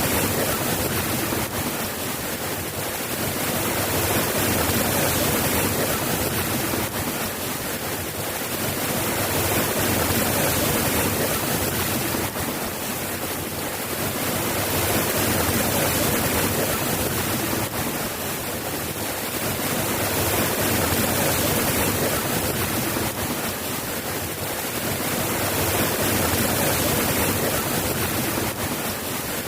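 Steady rain falling, a dense even hiss that swells and eases gently every four or five seconds.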